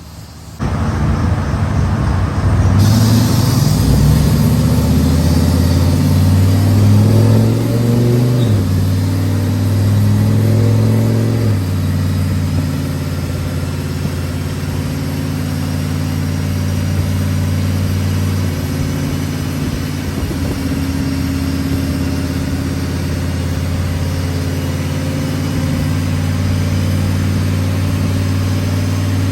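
Turbocharged Chevrolet Silverado engine starting abruptly, its speed climbing for several seconds, then dropping in steps to a steady run.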